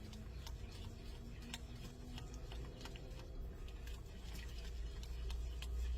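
A spoon stirring buttermilk gravy in a pan, making light, irregular clicks against the pan over a low steady hum.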